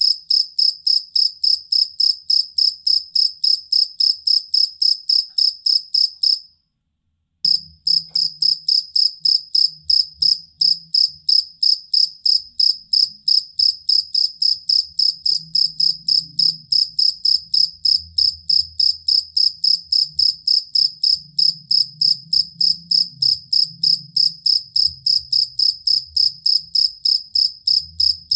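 Field cricket (jangkrik kalung) chirping steadily, about four high-pitched chirps a second, broken once by a silence of under a second about six and a half seconds in.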